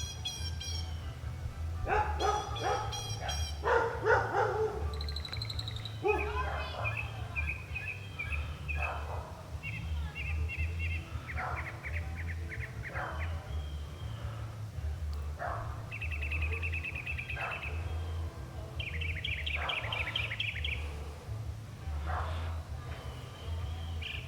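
Northern mockingbird singing a long string of varied phrases, each repeated several times: rapid trills, chatters and whistled notes, some of them mimicked songs. An uneven low rumble sits under the song.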